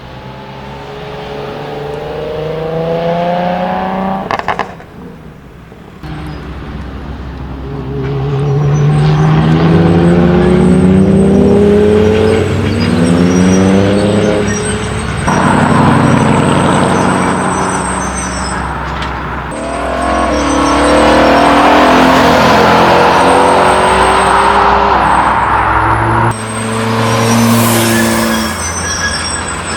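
Several modified cars accelerating away one after another, loud exhaust and engine notes rising in repeated sweeps that break off and climb again.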